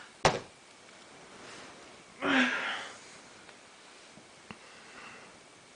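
A sharp click just after the start, then a short breathy sniff about two seconds in, with a few faint ticks later.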